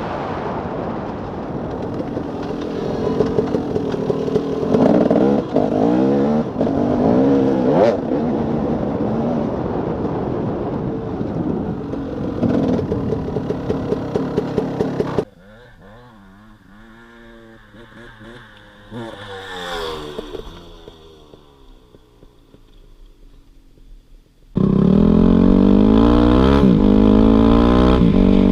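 Dirt bike engine close to the microphone, revving up and letting off repeatedly. About halfway through it cuts off abruptly to a much fainter dirt bike revving up and down at a distance. A few seconds before the end, a close engine comes in abruptly and runs loud at a steady pitch.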